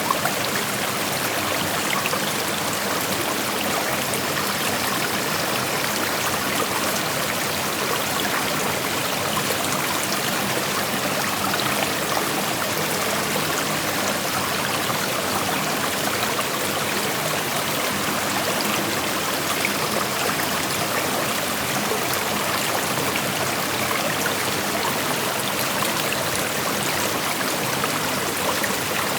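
Creek water flowing over rocks: a steady, even rush of running water with a light trickle in it.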